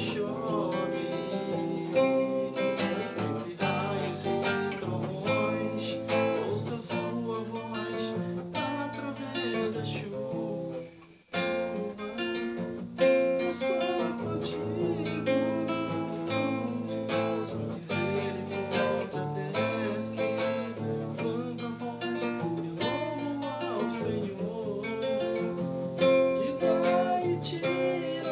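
Music: an acoustic guitar playing, plucked and strummed, with a brief break about eleven seconds in.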